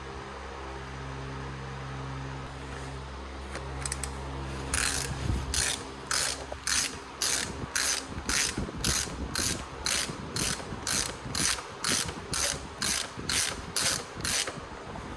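Hand ratchet wrench being worked in repeated strokes, its pawl clicking about twice a second, on a motorcycle fork during a fork seal replacement. It starts about five seconds in, after a low steady hum, and stops shortly before the end.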